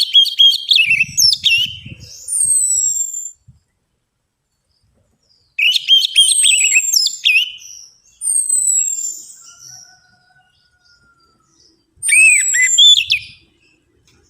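Orange-headed thrush (anis merah) song: several loud phrases of high whistled notes and quick chattering, with pauses of a second or two between them.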